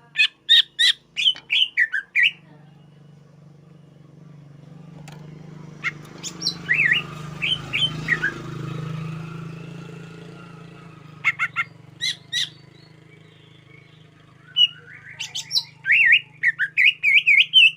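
Green leafbird (cucak ijo) singing in four loud bursts of sharp, quick chirps and whistles with pauses between. A low steady hum runs underneath, and a rush of noise swells and fades in the middle.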